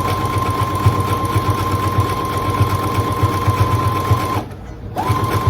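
Electric sewing machine stitching fabric: a steady motor whine over a fast needle rhythm, stopping for about half a second a little after four seconds in, then running again.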